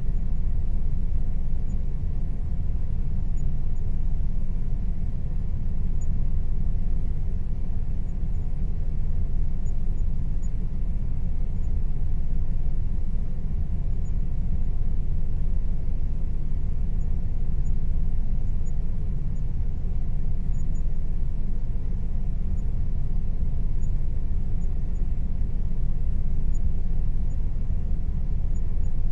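Air conditioner running with a steady low rumble and a faint steady hum above it, swelling and easing slightly every few seconds.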